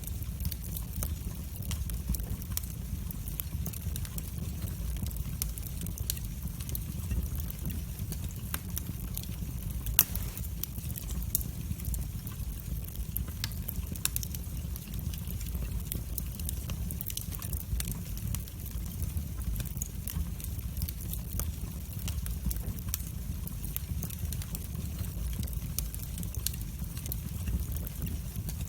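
Wood fire burning in a fireplace: a steady low rumble of flame with frequent small crackles and pops, and one louder pop about ten seconds in.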